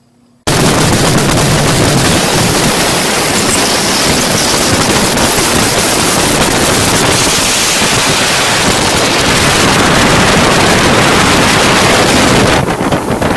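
Loud, steady rush of wind noise buffeting the microphone, cutting in suddenly about half a second in and stopping just as suddenly near the end.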